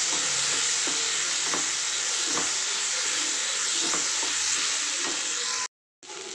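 Onion-tomato masala with ground spices sizzling in a non-stick pan while a flat spatula stirs it, scraping the pan about once a second. Near the end the sound cuts off abruptly for a moment, then the sizzle returns quieter.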